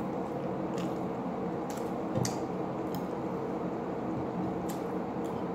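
Close-up mouth sounds of eating soft stewed milkfish and rice by hand: wet, squishy chewing with a handful of sharp clicks and smacks, the loudest a little after two seconds in, over a steady background hum.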